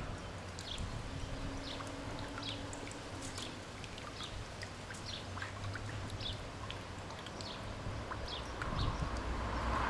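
Small birds chirping, short high calls scattered irregularly throughout, over a low steady rumble.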